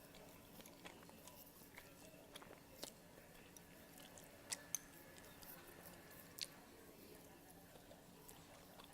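Faint close-up chewing of buldak ramen noodles, with a few soft, sharp clicks scattered through it.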